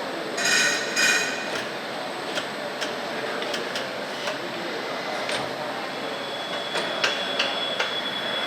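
Engine assembly-line machinery running steadily, with scattered sharp metallic clicks and knocks. There are two louder bursts about half a second and a second in, and a steady high tone starts about six seconds in.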